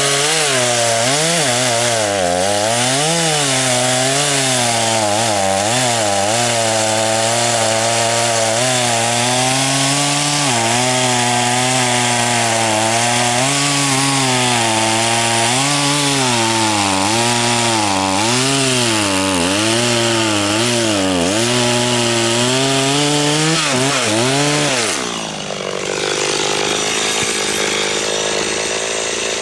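Two-stroke chainsaw at full throttle cutting wood, its engine pitch dipping and recovering over and over as the chain bogs under load. About 25 seconds in, the revs fall away to a low, steady idle.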